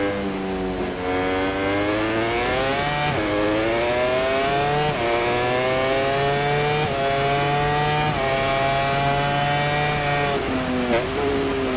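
MotoGP racing motorcycle's four-cylinder engine accelerating hard, its pitch climbing and then dropping sharply at four upshifts. Near the end the engine note falls away and blips as the rider brakes and downshifts.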